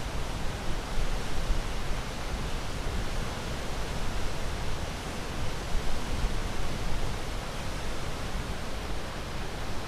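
Ocean waves: a steady, deep rushing of surf with small rises and falls in loudness and no distinct breaks.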